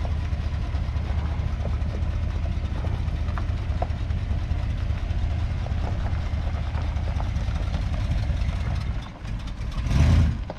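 Edsel engine idling steadily, just after being started. Near the end comes a brief loud rush of noise.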